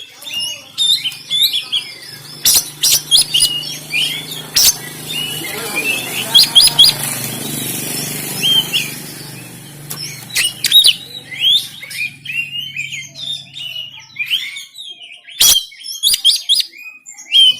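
Oriental magpie-robin (kacer) singing a fast, varied run of whistles and harsh chirps, with sharp clicks here and there. A steady low hum sits under the song from about two seconds in until a few seconds before the end.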